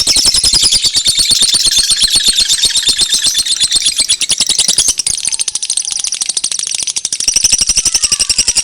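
Recorded bird-lure call: a fast, even run of sharp, high chirps. Fainter gliding whistles come in near the end.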